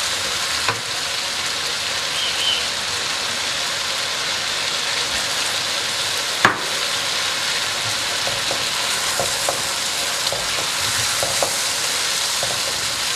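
Chicken pieces sizzling steadily in hot ghee in a nonstick karahi as they are stirred with a silicone spatula, the spices being fried with the meat. One sharp knock about halfway through, with a few small ticks later.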